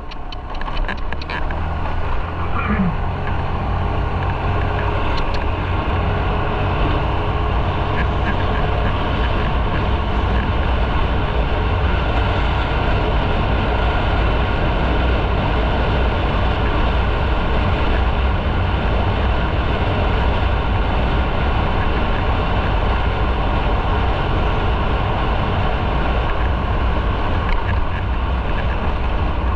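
Motorcycle riding along the road: engine rumble mixed with wind and road noise on the microphone. It gets louder over the first couple of seconds, then stays steady.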